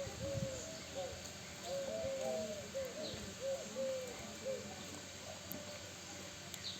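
Common myna calling: a quick run of short, low arched notes, repeated for about four and a half seconds before falling quiet, with a few faint high chirps.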